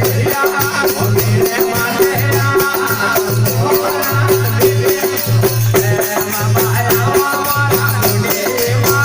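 Rajasthani desi veena bhajan music: a fast, steady beat of rattling, jingling percussion and a repeating low beat over a held drone tone, with a shifting melody line.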